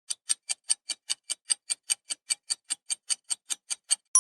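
Countdown-timer ticking sound effect: fast, even clock ticks, about five a second, counting down the answer time.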